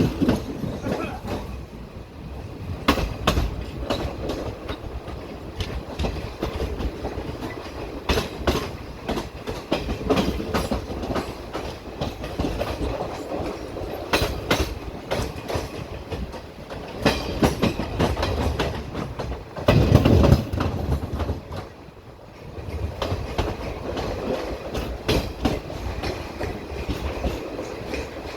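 Passenger train coaches rolling along the track, steel wheels clicking irregularly over rail joints above a steady rumble. There is a louder low rumble about twenty seconds in.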